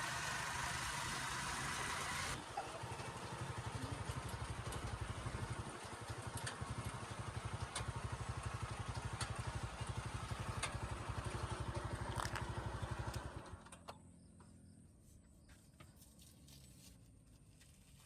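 An engine running with a fast, even beat, which stops about thirteen seconds in, leaving only faint background sound.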